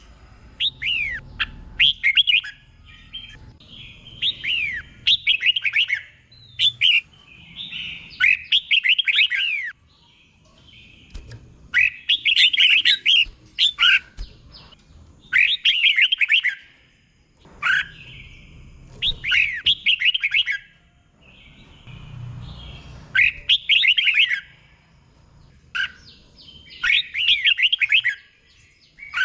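Red-whiskered bulbul singing: bursts of quick, sliding, warbling notes, one short phrase every three to four seconds.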